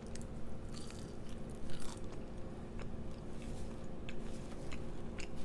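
Close-up chewing and wet mouth clicks of a person eating, with small crunches, over a steady low hum.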